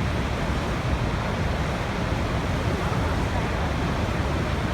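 Waterfall rushing: a steady, even roar of falling water, strongest in the low end.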